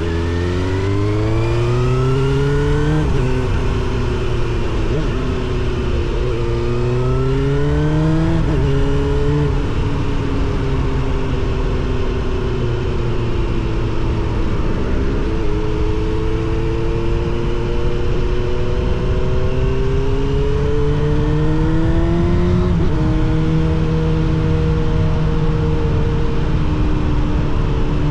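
Suzuki GSX-R750 SRAD inline-four with a Yoshimura R77 exhaust, under way. The engine note climbs in pitch under throttle and drops sharply at each gear change, three times. It steps again near the end.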